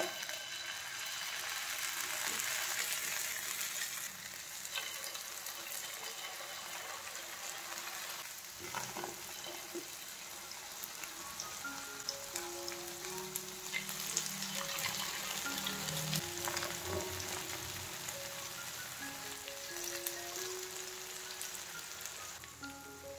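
Chicken-and-egg kebab patties sizzling and crackling in shallow oil on a flat non-stick pan, with a metal spoon scraping now and then as more mixture is spooned in and spread. Soft background music comes in about halfway.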